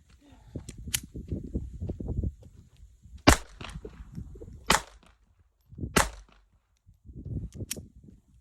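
Ruger LCP II .22 LR pistol firing Winchester Power Point rounds: three sharp shots about a second and a half apart, the first the loudest. Fainter cracks come about a second in and near the end.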